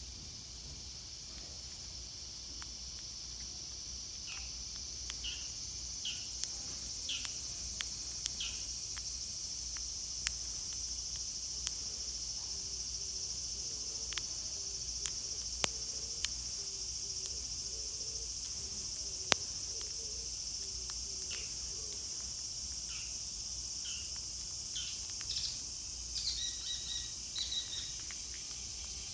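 Steady high-pitched drone of cicadas, slowly growing louder, with short bird chirps scattered through it and a dozen or so sharp clicks.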